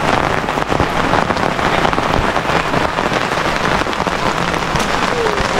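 Steady rain falling, an even hiss dotted with many separate drops hitting.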